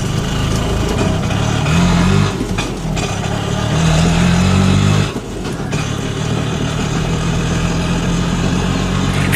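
Motor vehicle engine sound running steadily, revving up briefly twice and dropping back, with a short dip about five seconds in before it settles into a steady idle.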